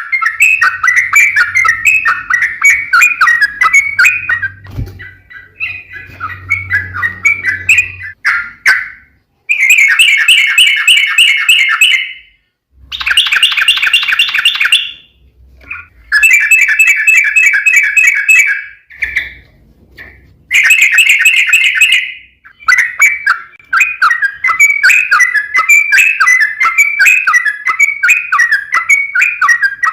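Yellow-vented bulbul singing: long bursts of fast bubbling chatter, with several runs of very rapid repeated notes (its rolling 'ropel' song) broken by short gaps in the middle.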